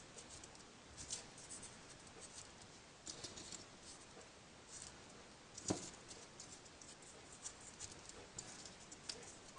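Folded paper origami modules faintly rustling and scratching as they are handled and slotted into place, with one louder tap a little past halfway.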